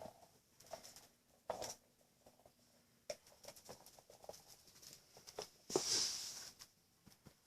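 Spitz puppy playing and moving about indoors: scattered light taps and clicks, with one louder, short hiss-like burst about six seconds in.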